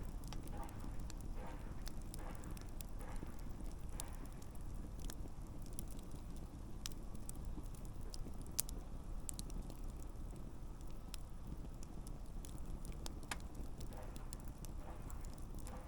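Wood campfire burning: a steady low rumble with scattered sharp crackles and pops, the loudest pop about halfway through.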